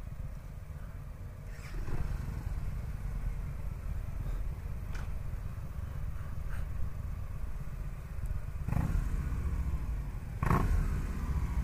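Victory Gunner's 106-cubic-inch V-twin engine running with a steady low rumble, growing louder a few times.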